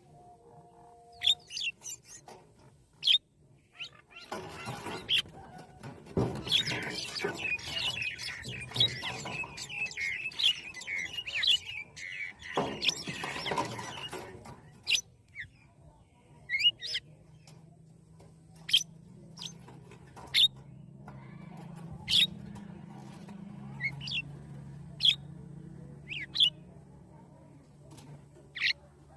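Birds chirping in short, sharp single notes scattered throughout, with a busy stretch of overlapping chirps and rustling in the first half. A faint low steady hum sits underneath in the second half.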